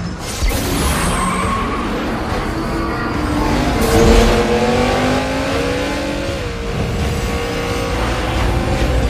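Car engine revving and accelerating: its pitch climbs and peaks about four seconds in, then settles into a steady drone.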